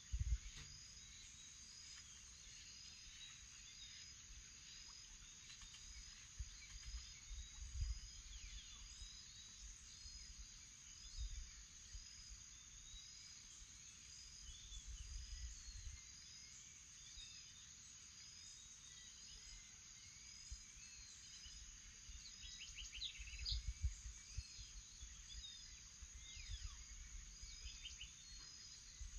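Faint morning chorus of birds calling over a steady high-pitched insect drone, with one short chirp repeating about once a second. Low rumbles come and go, strongest about a third of the way in and again near the end.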